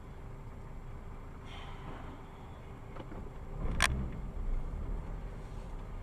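Steady road and engine noise of a car, recorded by a dashcam, broken about four seconds in by one sharp crash impact followed by a low rumble.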